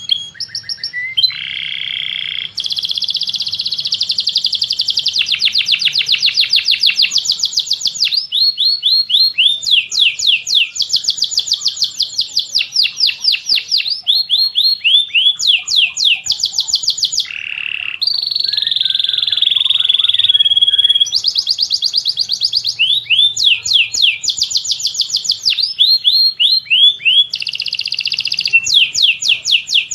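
Songbird song: long fast trills of repeated sweeping notes, about eight a second, run in series one after another with brief breaks and a few held, buzzy phrases between them, typical of canary, linnet or white-rumped shama song.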